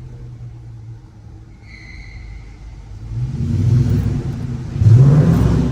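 Sports car engine idling low, then revved hard from about three seconds in, with a second, louder rev rising in pitch near the end.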